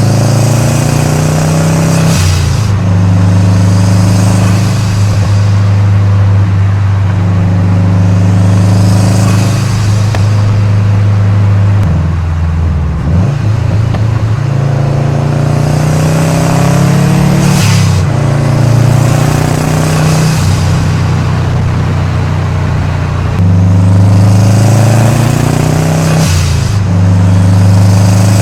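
2013 Subaru WRX's turbocharged 2.5-litre flat-four engine and exhaust running under load while driving, its note shifting between steady stretches as it changes speed. Four short bursts of turbo hiss come roughly every eight seconds.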